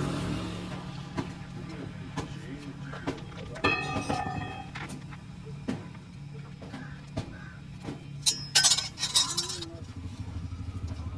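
Workshop machinery running with a steady low hum, with scattered metallic clicks and knocks. A brief ringing metal sound comes about four seconds in, and a short burst of loud metal clattering near the end.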